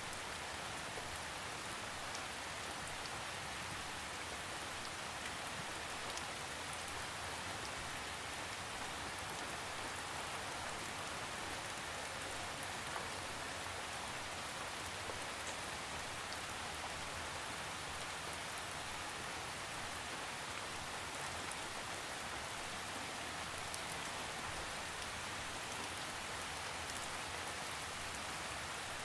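Steady rain falling on a surface, an even hiss with faint scattered drop ticks, without thunder.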